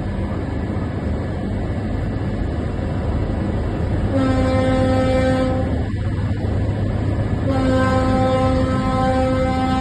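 A boat's horn sounding long, steady single-note blasts: one about four seconds in lasting around a second and a half, another starting near the end and held, over a steady low rumble.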